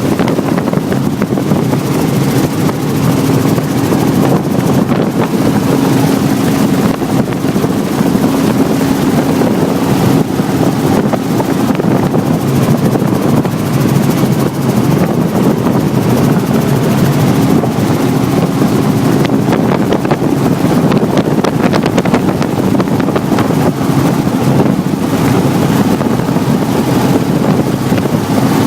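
Helicopter engine and rotor running steadily in flight, heard from aboard, with wind buffeting the microphone.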